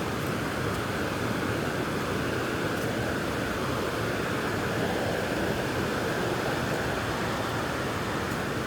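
Steady rushing of river water flowing over rocks, an even hiss and rumble with no pauses.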